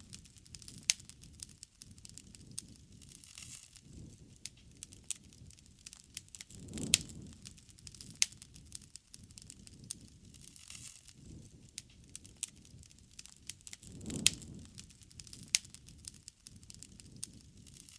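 Wood fire crackling, with frequent sharp pops over a low steady bed of sound; the bed swells briefly about a third of the way in and again near three quarters, each time with a louder pop.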